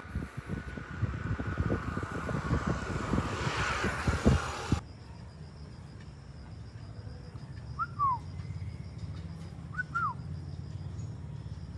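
A loud rushing noise with low thumps, cut off suddenly about five seconds in. Then, over a steady low hum, a bird gives two short downward-slurred whistled calls about two seconds apart.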